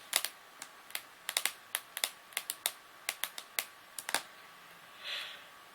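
A quick, irregular run of sharp clicks for about four seconds, like keys being tapped, followed by a brief soft rustle about five seconds in.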